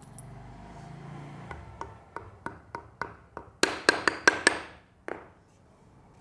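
A hammer tapping a metal part of a motorcycle front fork into place: about a dozen sharp, ringing blows that come faster and louder, the hardest in a quick flurry past the middle, then one last blow.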